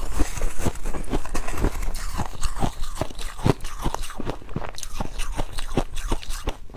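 Ice being crunched between the teeth and chewed close to the microphone: a rapid, irregular run of sharp crackling crunches, several a second.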